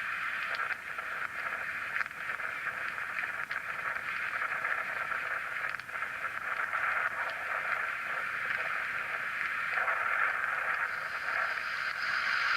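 Steady static-like hiss that sounds as if it comes through a radio, with faint scattered crackles; it grows a little louder near the end.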